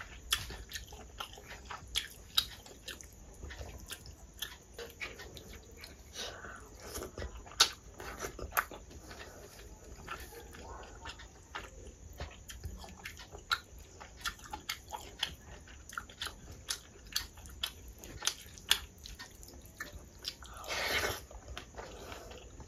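Close-up eating sounds of rice and dal eaten by hand: wet chewing with many short, sharp lip smacks and clicks. Near the end, a louder noisy sound lasting about a second.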